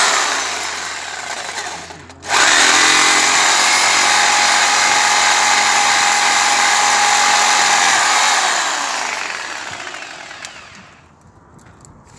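Chainsaw cutting a tree: a first run that tapers off, a brief break about two seconds in, then a longer steady run at a held pitch for about six seconds that gradually fades away near the end.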